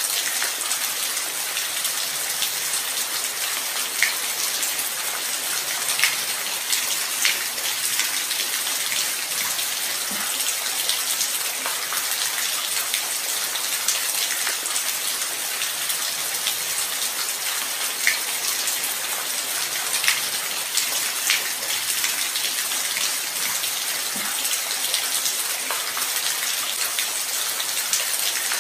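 Light rain falling steadily: a dense, even hiss of drops, with now and then a single louder drop tick standing out.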